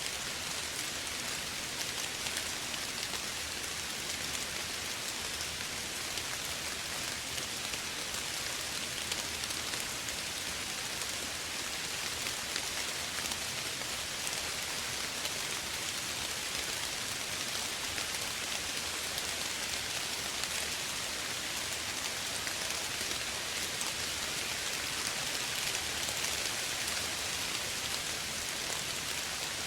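Steady, gentle rain falling, an even hiss of many small drops on surfaces with no let-up.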